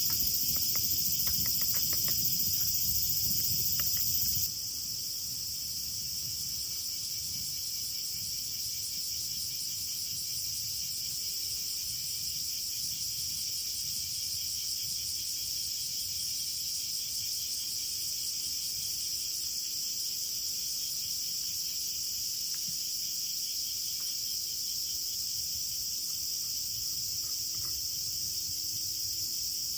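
A steady, high-pitched chorus of chirping insects. Over the first four seconds or so it is joined by scattered clicks and a low rumble, which stop abruptly, leaving the insect chorus alone.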